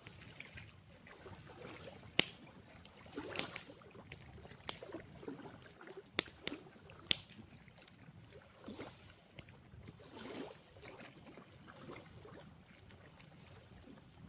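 Steady high-pitched night insect trill that drops out twice, with scattered sharp clicks and soft scrapes close by.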